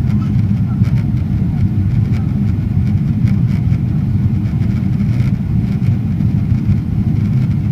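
Steady low rumble inside the cabin of a Boeing 777-300ER with its engines running: an even roar of engine and air noise that does not change in pitch, with faint scattered ticks.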